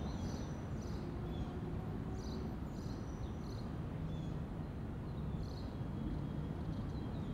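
Outdoor ambience: short, high chirps from small birds come irregularly, a few at a time, over a low, steady rumble.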